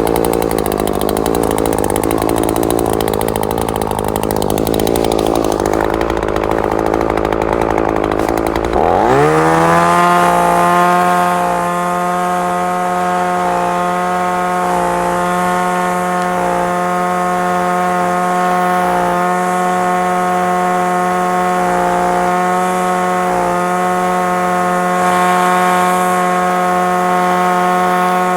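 Echo SRM-2620 string trimmer's two-stroke engine running unevenly at low speed, then revved up about nine seconds in and held at a steady high speed.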